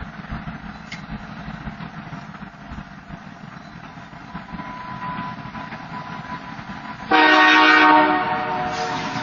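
Finger Lakes Railway diesel freight locomotive approaching with a low rumble, then its air horn sounds a loud chord about seven seconds in, easing to a quieter, held horn near the end.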